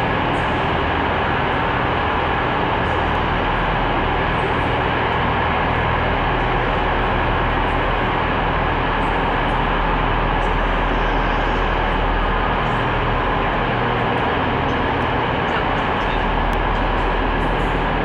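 Steady rumble and hum of a train in a railway station, with a faint constant whine above it.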